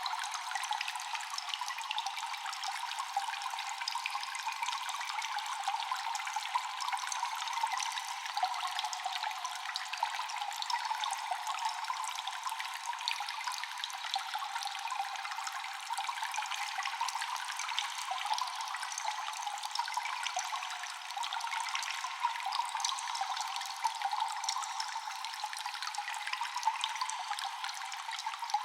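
Echoing cave water: constant dripping and a steady trickle, many small drops falling at once over a running-water hiss, thin with no low rumble.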